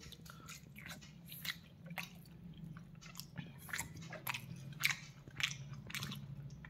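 Close-up mouth sounds of someone chewing a steamed chicken momo: faint, irregular wet clicks and smacks.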